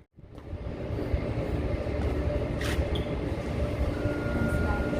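Steady low mechanical rumble of idling diesel trucks at a fuel island, with a thin steady whine joining about three and a half seconds in.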